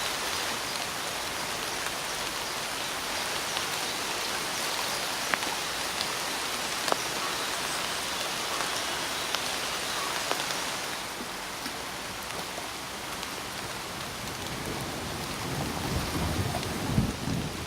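Steady heavy rain falling, an even hiss with scattered sharp drop ticks, easing slightly about two-thirds of the way in. A few low, uneven thuds come near the end.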